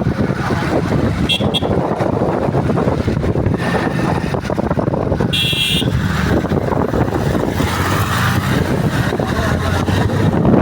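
Motor vehicle traffic heard while riding: a steady engine and road rumble, with a short high-pitched horn beep about five seconds in and a briefer one just after a second in.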